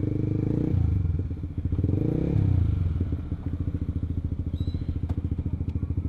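Honda CBR150R's single-cylinder engine through an R9 aftermarket exhaust, rising in revs briefly about two seconds in, then dropping to an idle with a steady, even pulse.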